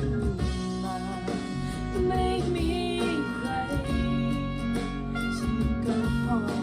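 Recorded pop song with guitar and a melodic lead line, played back through Elac Debut 2.0 DB62 bookshelf loudspeakers driven by a Rotel A11 amplifier, picked up by a phone microphone in the room.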